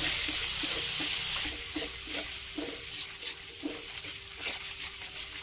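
Ground chili, garlic and candlenut paste sizzling in hot oil in a wok while a metal spoon stirs and scrapes it, about two to three scrapes a second. The sizzle is loud at first and drops off about a second and a half in, leaving the scraping strokes over a quieter fry.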